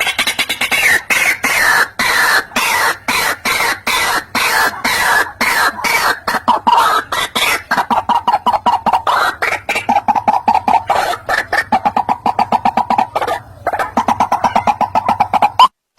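White-breasted waterhen calling: a loud, rapid, unbroken run of harsh repeated notes, many to the second.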